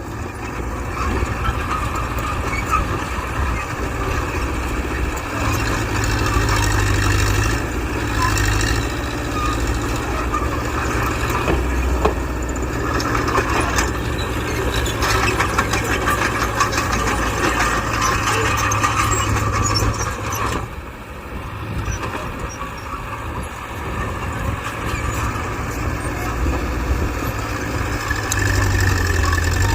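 Diesel engine of a Mitsubishi BD2G bulldozer running steadily while working, easing off briefly about two-thirds of the way through.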